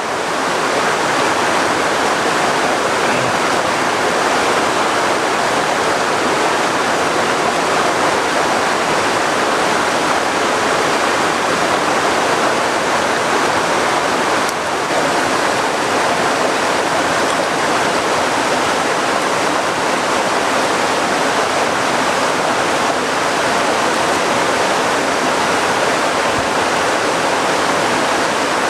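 Loud, steady rushing of water, an even hiss without a break.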